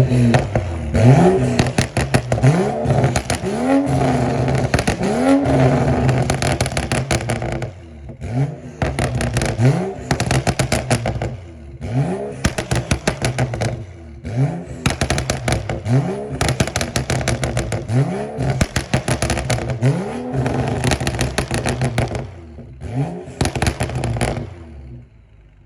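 BMW E93 335i's turbocharged N55 straight-six, on a stage 2 tune with a downpipe and BMW's OEM performance exhaust, revved again and again in quick blips, each one rising in pitch and falling back with crackles. There are short breaks in the blipping, and the revving stops near the end.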